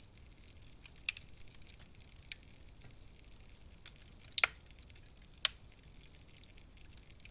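Wood fire crackling: a few sharp pops and snaps over a low, steady hiss, with a close double pop just past the middle and another a second later.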